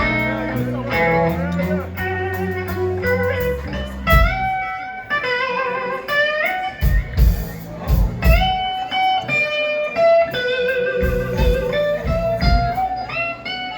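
Live blues band playing a slow blues: an electric guitar solo with wide string bends over bass and drums.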